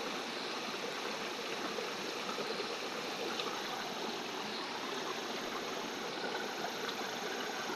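A river flowing: a steady, even noise of running water.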